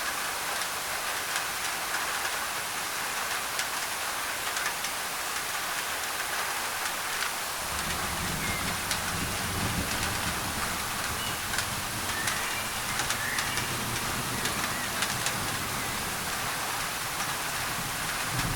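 Rain on a thin tin roof with sharp drip ticks, under a steady hiss of added white noise. A low rumble sets in about eight seconds in and holds, and a few faint bird chirps come in the second half.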